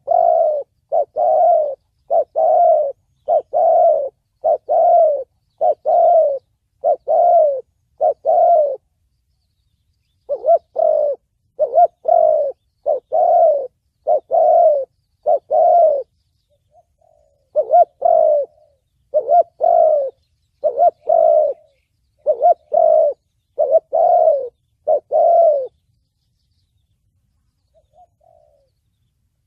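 Spotted dove cooing in the 'thổ bầu' voice prized by Vietnamese dove trappers for luring. The coos come about one a second in three runs separated by short pauses, and each note falls slightly in pitch.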